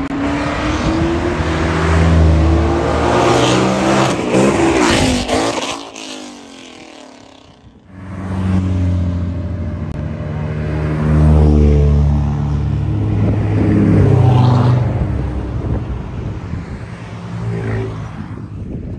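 High-performance car engines revving and accelerating as cars drive past one after another. The sound drops away about six seconds in, then another loud engine comes up and sweeps up and down in pitch as it passes.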